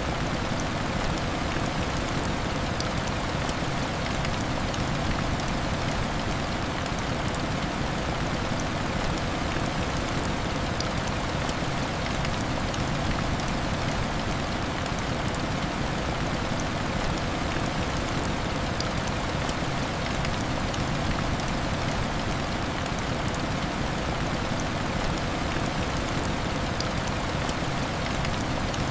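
Heavy rain falling steadily: a dense, even hiss with fine drop ticks scattered through it.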